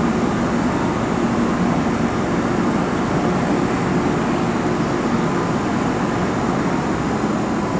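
Keihan electric train running at the station, a steady noise of wheels and motors that holds even without any break.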